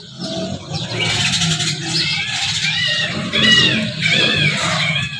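Birds calling several times in short arched calls over a steady low rumble.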